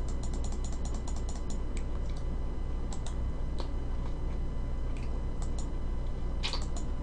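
Close-miked chewing of pizza: a quick run of small crisp clicks and crackles in the first second and a half, scattered clicks after, and a short cluster near the end, over a steady low hum.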